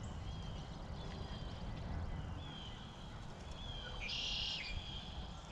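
Wild birds calling, short whistled notes repeating about once a second, with a brief buzzy call about four seconds in, over a steady low background rumble.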